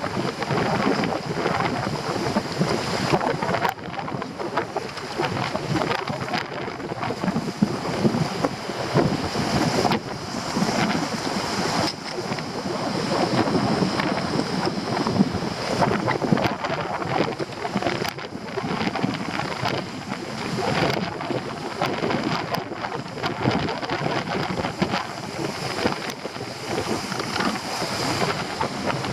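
Stormy sea surf crashing and washing with strong wind buffeting the microphone, the noise surging and easing in gusts, with a few brief sharp crackles.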